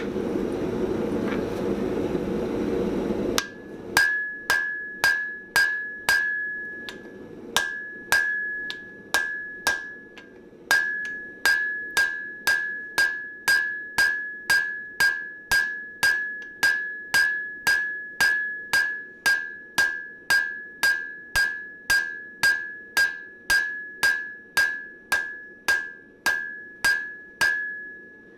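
A steady rushing noise cuts off abruptly a few seconds in. Then a hand hammer strikes hot steel on an anvil at about two blows a second, each blow leaving a high, clear anvil ring, with two brief pauses. This is forging in the transition at the back of the shovel's handle.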